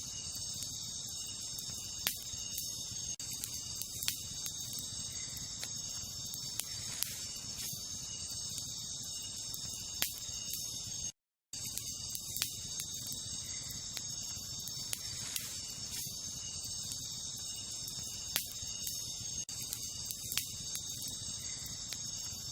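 Wood campfire crackling, with sharp single pops every second or two, over a steady high chorus of night insects such as crickets. The sound cuts out completely for a moment about halfway through.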